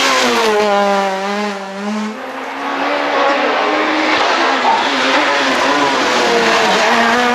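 Super 2000 rally car's naturally aspirated four-cylinder engine at high revs: the pitch falls over the first two seconds as the car slows, then the revs climb again and hold high as it pulls away, dipping and rising once more near the end.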